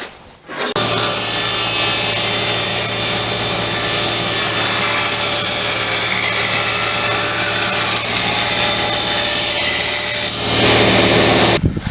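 Power saw running and cutting through wood stock. The motor comes up about a second in, runs steadily with its blade in the wood, shifts in tone briefly near the end, then stops.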